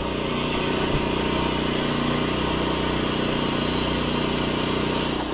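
Small gasoline engine of a portable air compressor running steadily at a constant speed, with an even hiss over it.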